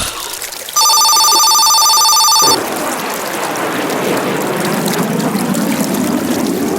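An electronic ringing tone, two pitches trilling rapidly, sounds for under two seconds starting about a second in, then gives way to a steady rushing noise, like pouring water, for the rest.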